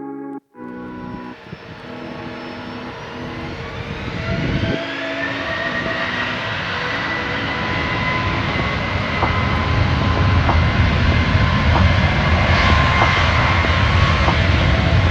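Airliner engines growing steadily louder as the aircraft nears or powers up, with a whine that rises in pitch over the first few seconds and then holds steady. A brief bit of music ends just before the engine sound comes in.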